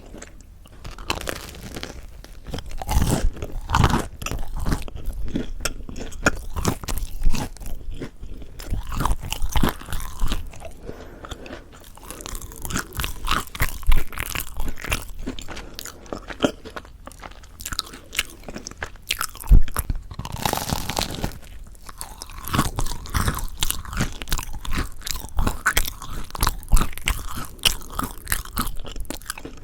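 Close-miked crunching and chewing of crispy mocha chewy rice bread, a dense run of crackly crunches with sharper bites every few seconds.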